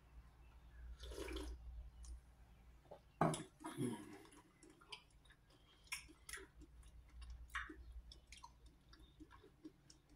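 Faint mouth sounds of drinking and eating: a sip from a stainless steel mug about a second in, a knock just after three seconds as the mug is set down on the table, then small wet clicks of chewing.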